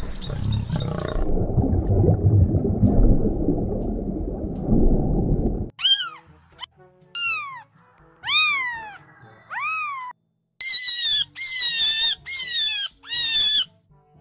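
A lion's low rumbling growl for the first few seconds, then kittens meowing: four single meows that rise and fall in pitch, followed by a quick run of five higher, overlapping meows from several kittens.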